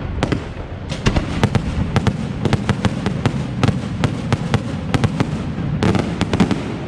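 Fireworks display: a rapid, irregular series of sharp bangs over a steady rumble, with a dense cluster of reports near the end.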